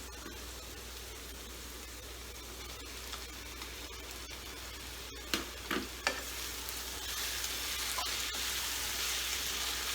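Sliced onions frying in mustard oil in a pan, a steady sizzle, with a few sharp knocks of a utensil against the pan about halfway through. The sizzle grows louder over the last few seconds.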